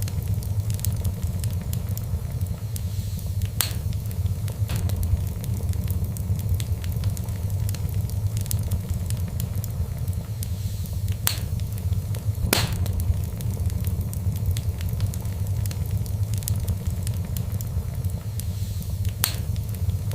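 Fire burning in a fireplace: a steady low rumble under constant small crackles, with four sharper pops spread through.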